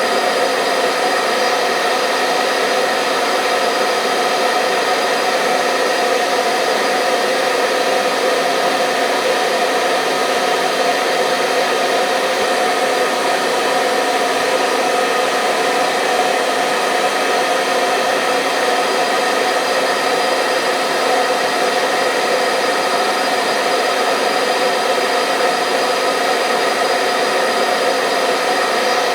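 Hair dryer running continuously at a steady speed: a constant fan-and-motor whoosh with a steady hum, no breaks or changes.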